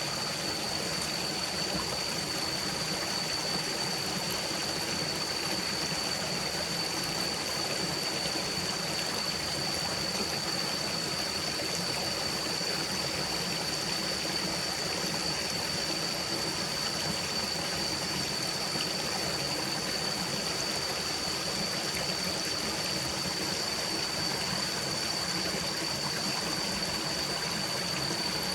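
Forest stream running steadily, an even rush of flowing water. A constant high-pitched tone runs unchanged alongside it.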